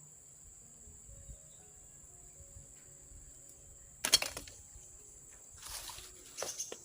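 Steady high-pitched insect chirring, typical of crickets. About four seconds in, a sudden loud crackling rustle cuts in, and more rustling follows near the end.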